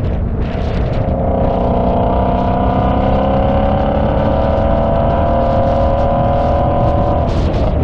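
A car engine pulls steadily under acceleration, its pitch climbing slowly for about seven seconds before the pull breaks off near the end. Throughout, there is a loud low rumble.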